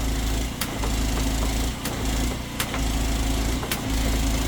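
Drain jetter's engine and high-pressure pump loading up and easing off about once a second as the trigger gun is pulsed on and off, with a sharp click at each change. The worm nozzle is being driven against a root blockage, the pulsing used to move the material and feel how much resistance is left.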